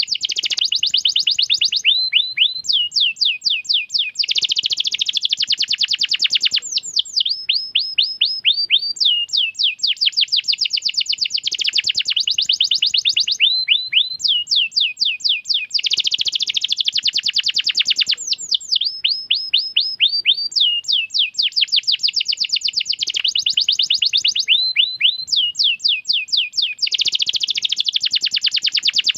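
Domestic canary singing long rolling song: fast runs of quick sweeping chirps, dense trilled rolls and series of lower repeated notes, phrase after phrase without a break. The same sequence comes round about every six seconds.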